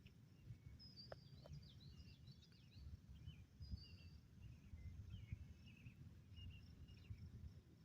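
Near silence: faint, scattered bird chirps over a low rumble.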